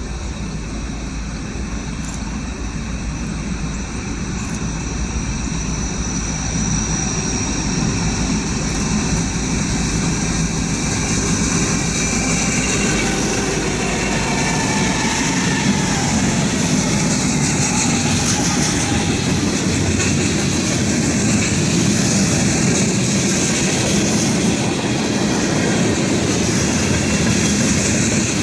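Norfolk Southern train rolling past on the rails, a continuous rumble and rattle of wheels and cars that grows louder over the first half and then holds steady.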